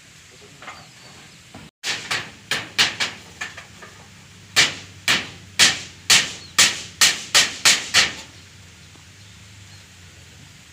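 Hammer blows: a quick run of about five, then after a short pause about eight more at roughly two a second.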